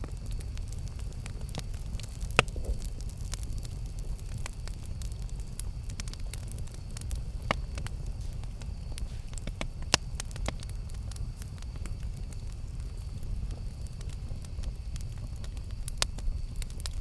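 Campfire burning: a steady low rush of flames with irregular sharp crackles and pops from the burning wood, a few louder snaps standing out, about two and a half seconds in and near the middle.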